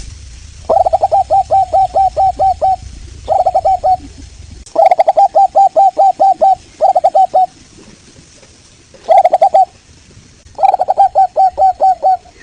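Local zebra dove (perkutut) singing: loud phrases of rapid staccato coo notes, about five a second, in five bursts separated by short pauses. A faint low hum sits under the first few seconds.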